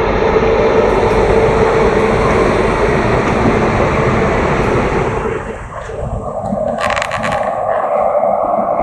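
Passenger train running, heard from on board: a steady rumble with wind noise. The sound thins and changes character about five and a half seconds in, and a few sharp clicks come near the end.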